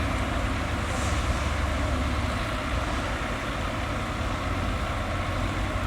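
Heavy diesel earthmoving machinery running steadily, a constant low engine rumble with no sharp changes.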